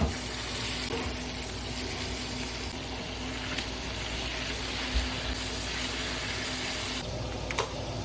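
Thin-sliced, oil-marinated chicken breast frying in a hot pan: a steady sizzle, with one sharp click near the end.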